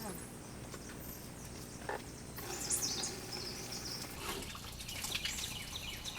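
Birds chirping and singing in quick, gliding notes that start about two and a half seconds in, over a faint, steady low hum.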